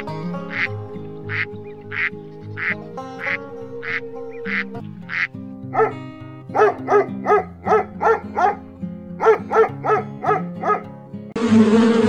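A duck quacking rapidly, about fifteen short quacks in two quick runs, over background music with a steady plinking beat. Near the end a loud, even buzz cuts in abruptly.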